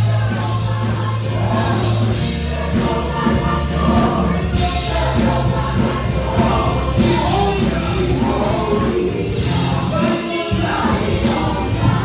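Gospel music: a choir singing over band accompaniment with sustained bass notes.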